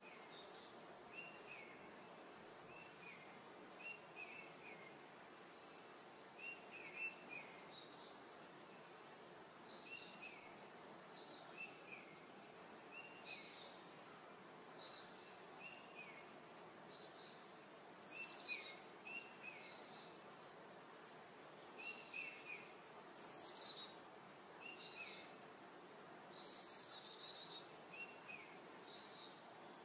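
Birds chirping in short, falling calls every second or two, some higher and some lower in pitch, over a faint steady outdoor background noise.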